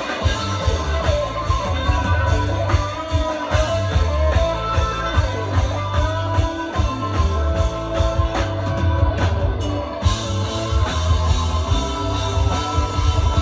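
Rock band playing live, with electric guitar over a steady drum-kit beat.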